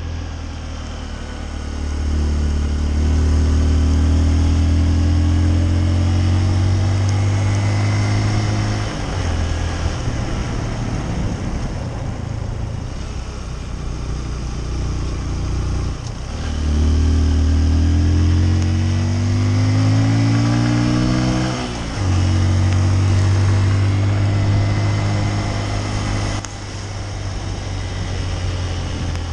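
Honda CRF150L's single-cylinder four-stroke engine under way, twice pulling up in pitch as the bike accelerates and dropping off suddenly each time, with steady rushing wind noise throughout.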